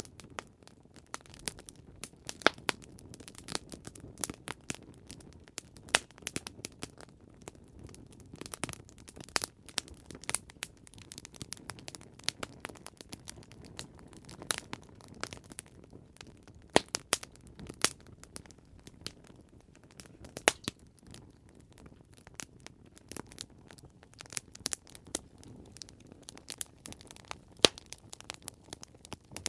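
Campfire crackling: irregular sharp pops and snaps over a low steady burning rumble, with a few louder pops scattered through.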